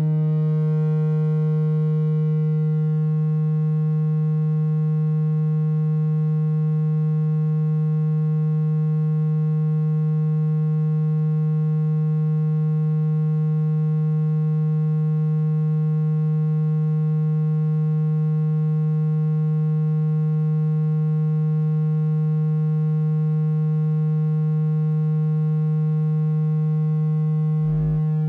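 Synthesized water-ejection tone for a phone speaker: one steady low tone with many even overtones, held unchanged to shake water out of the speaker grille, with a brief break about a second before the end.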